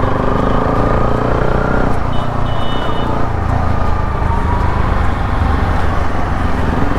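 Bajaj Pulsar NS200's single-cylinder engine running through an Akrapovic full-system exhaust while riding in traffic, with a low steady rumble and revs rising over the first two seconds and again near the end. A short high beep sounds about two seconds in.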